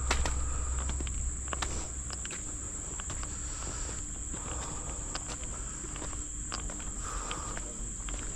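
Steady high-pitched drone of forest insects, with irregular footsteps on a trail over it.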